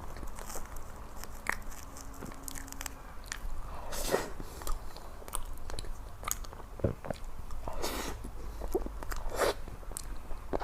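Close-miked eating sounds: a person biting and chewing ice cream cake, with short mouth clicks and wet smacks at irregular moments.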